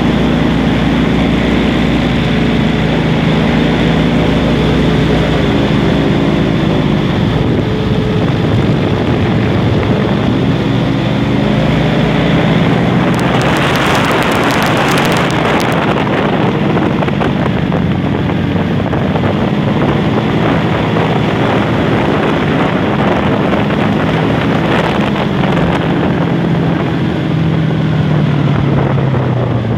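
Airboat's engine and propeller running at speed, the pitch wavering with the throttle and wind buffeting the microphone, strongest about halfway through. Near the end the engine winds down to a lower pitch.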